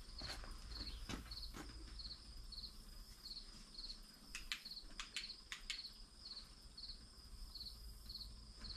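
Cricket chirping steadily, about two short high chirps a second, with a few faint clicks and knocks in between.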